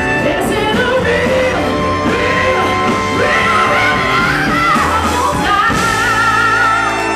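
Soul band playing live with a woman singing lead, building to the song's finish. A long held vocal note with wide vibrato rides over the band's sustained closing chord near the end.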